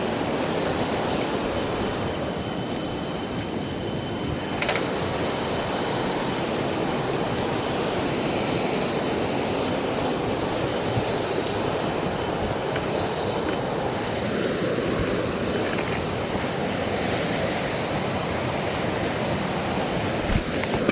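River water rushing steadily below the bridge, with a single sharp click about five seconds in.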